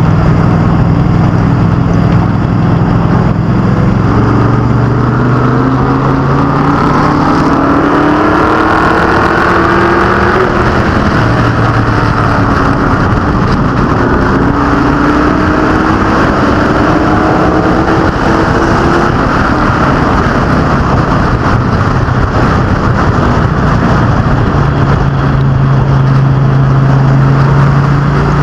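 Racing cars and trucks running laps on a short oval, a pack of engines at full throttle with pitch rising twice as they accelerate, over a steady dense drone of engines and tyres.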